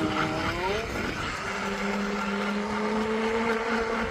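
Electric unicycle's hub motor whining as it gets under way: the pitch climbs quickly over the first second, then holds almost steady and creeps slowly higher, over a haze of wind and rolling noise.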